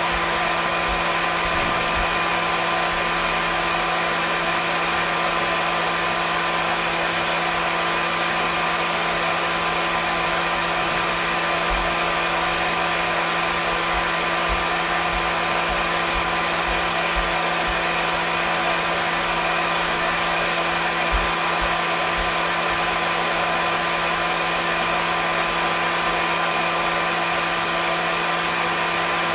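Hair dryer running steadily: an even rushing hiss of air with a constant motor hum under it.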